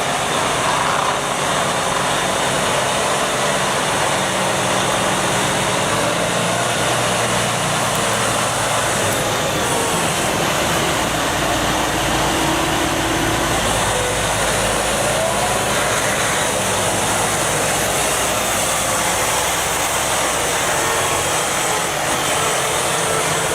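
Large forestry wood chipper and its engine running steadily, with a few faint short rising whines near the middle and end.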